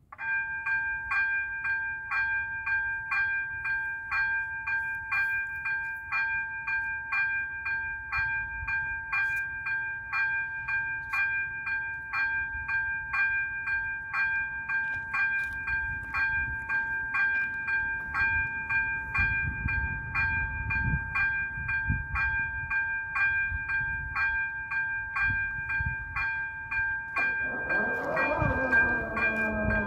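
Czech level-crossing electronic warning bell (AŽD 97 crossing) switching on and ringing with rapid, regular strokes. A low train rumble builds through the second half, and near the end the passing train adds several falling tones.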